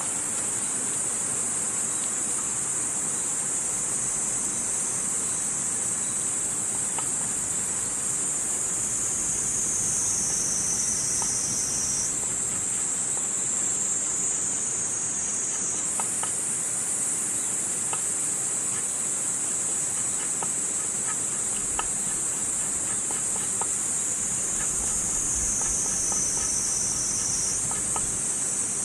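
A steady, high-pitched insect chorus that slowly sinks in pitch and jumps back up a few times, over the faint scattered crackles of a wood fire burning.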